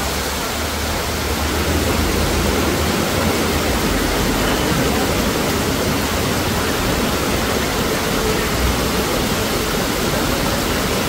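Torrential rain pouring down and floodwater rushing across a street, a steady, unbroken hiss.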